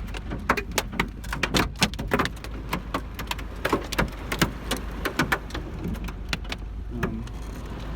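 Hailstones striking the roof and body of a Volvo 940 wagon, heard from inside the cabin: a dense, irregular clatter of sharp knocks, several a second, over a steady low rumble. The knocks thin out a little past the middle.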